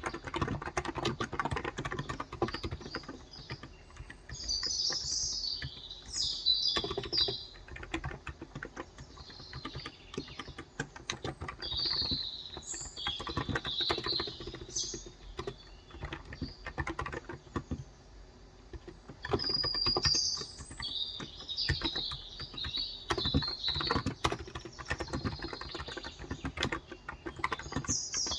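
Typing on a Cox Endeavor electro-capacitive (Topre-style) 35 g tenkeyless keyboard, a steady run of soft key clacks with short pauses. Birds chirp in the background in several bouts.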